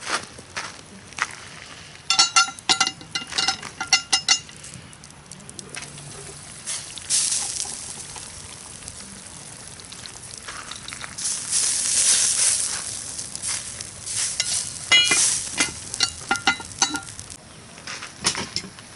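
Food sizzling in a pan over a campfire, with hissing swells twice. There are two runs of quick metallic clinks, a metal utensil knocking and scraping against the pan as the food is stirred.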